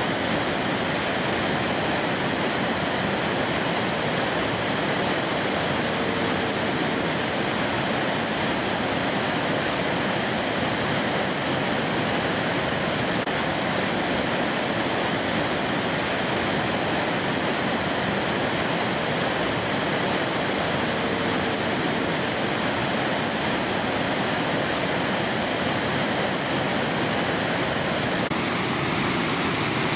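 Fast mountain river rushing over rocks in a steady, unbroken flow.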